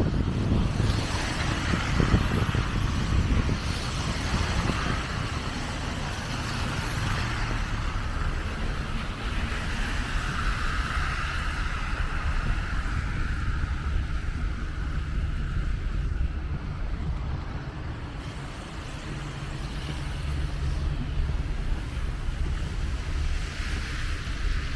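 Storm wind buffeting the microphone in a steady low rumble, with a rushing hiss that swells in the middle and fades again.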